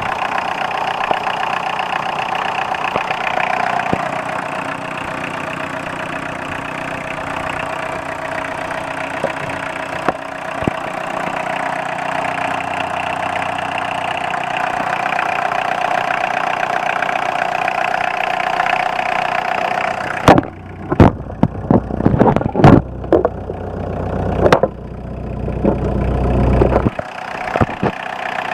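The 1982 VW Rabbit pickup's four-cylinder diesel engine idling steadily. About two-thirds of the way through, a run of loud knocks and bumps with low rumbling covers it for several seconds.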